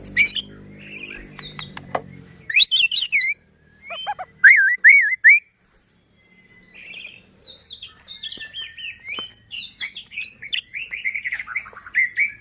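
White-rumped shama (murai batu) singing: loud, varied phrases of quick looping whistles and rapid chattering notes, with a second-long pause midway.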